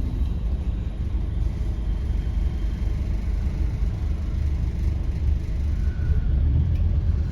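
Steady low rumble inside a single-deck bus cabin from the Scania N270UD OMNICity's diesel engine running, with a general hum of the cabin.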